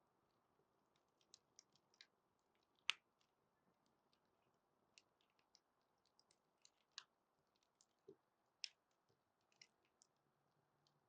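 Fire crackling: scattered sharp pops and snaps at irregular intervals over a faint hiss, the loudest about three seconds in.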